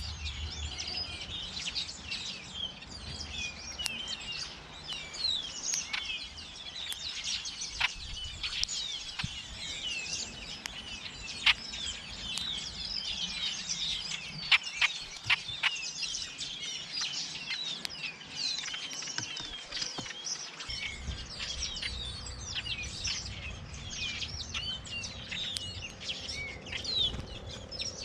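A dense chorus of many small birds chirping, with several sharp clicks between the calls, the loudest a little past the middle.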